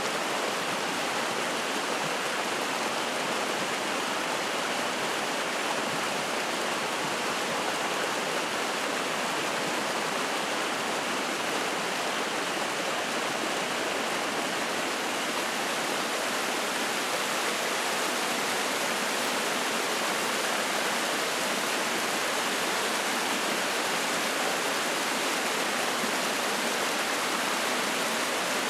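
Spring-fed mountain stream, a steady rush of flowing, splashing water.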